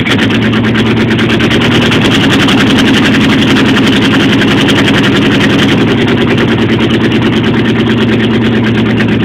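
AMC 360 V8 with a two-barrel carburetor in a 1989 Jeep Grand Wagoneer idling steadily after a cold start, with an even pulsing beat. A belt squeaks from something dragging on it, which the owner hears but cannot place.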